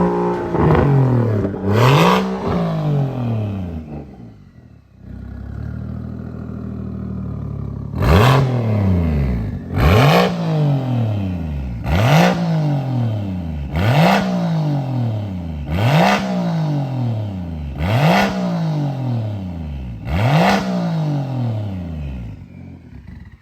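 BMW N54 inline-six with a big single turbo, straight-piped through a 3.5-inch exhaust, being free-revved: a couple of revs, a brief dip about four seconds in, a steady idle, then seven sharp blips about two seconds apart, each snapping up and falling back toward idle.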